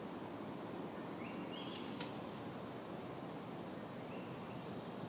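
Steady outdoor background noise, with a faint, short, high call that steps up in pitch about a second in and again about four seconds in, and a couple of sharp clicks around two seconds in.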